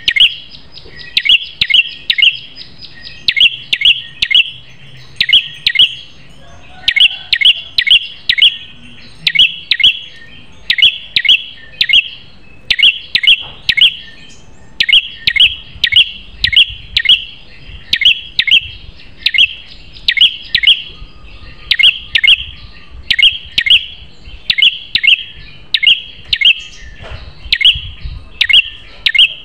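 Prenjak kepala merah (ashy tailorbird) calling: sharp, high notes in quick clusters of three or four, repeated about once a second without a break.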